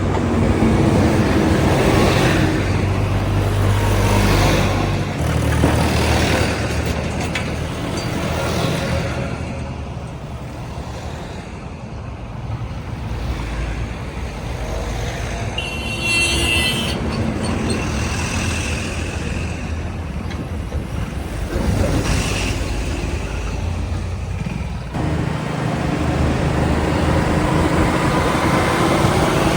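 Heavy diesel engines of a backhoe loader and tipper trucks running and working, louder in the first few seconds and again near the end. A short high-pitched warbling tone sounds about halfway through.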